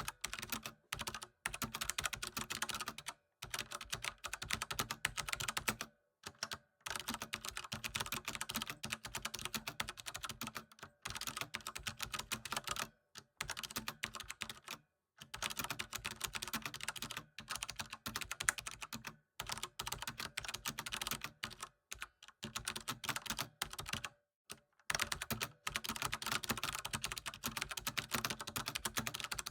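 Typing on a computer keyboard: rapid, dense keystrokes in runs of a few seconds, broken by short silent pauses.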